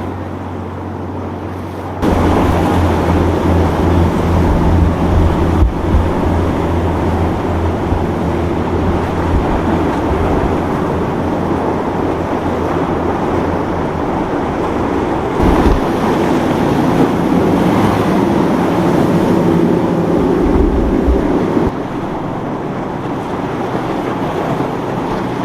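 Boat engines running as boats pass through the inlet, with waves and surf and wind buffeting the microphone. It gets suddenly louder about two seconds in and eases slightly near the end.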